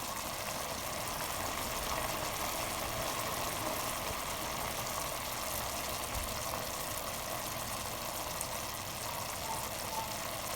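Chicken adobo simmering in its pot: a steady bubbling hiss as the soy-vinegar sauce cooks down.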